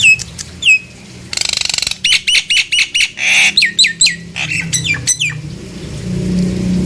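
Jalak nias (a myna kept as a songbird) calling: a rapid run of sharp, downward-sliding whistled notes with a harsh buzzy rasp about a second and a half in. A low steady hum comes in near the end.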